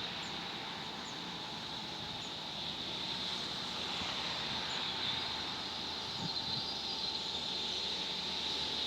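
Heavy machinery running steadily outdoors, with a constant high whine over it and a few faint bird chirps.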